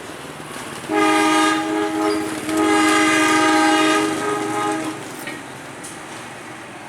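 Train horn sounding two long blasts, each a chord of several pitches: a shorter one about a second in, then a longer one of about two and a half seconds.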